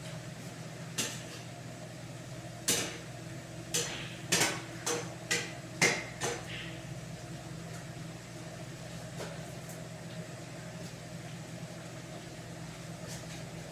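Kitchen utensils and cookware knocking and clinking: about eight sharp knocks, some ringing briefly, over the first half, then only a steady low hum.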